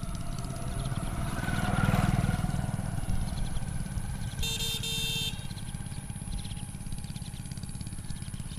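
A motor vehicle engine running with a steady low rumble that swells briefly about two seconds in. Two short high horn honks follow in quick succession, about four and a half seconds in.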